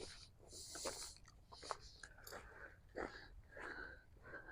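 Footsteps crunching on desert gravel and sand, a series of uneven steps about every half second to a second.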